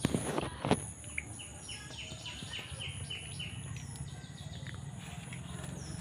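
A bird calling a quick run of short notes, each falling in pitch, about four a second. Two loud bumps in the first second are the loudest sounds.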